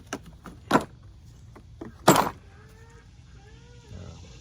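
A few sharp knocks and clatters of things being handled, the loudest about two seconds in. A bird chirps faintly a few times after it.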